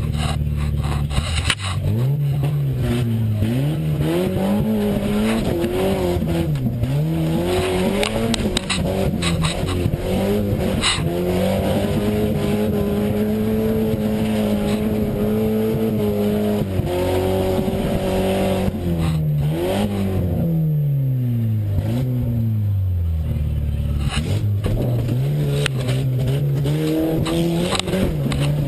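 Tough truck engine revving hard and easing off again and again over a rough course, heard from the driver's helmet, with a long held high rev in the middle. Knocks and rattles from the truck come in the first few seconds and again about ten seconds in.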